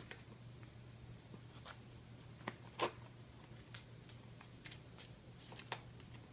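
Kitten playing with a cat house toy: faint scattered scratches and taps of paws and claws, the loudest pair about two and a half seconds in.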